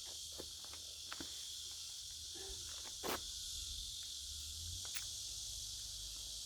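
Faint scattered clicks and light taps, a handful over a few seconds, over a steady background hiss.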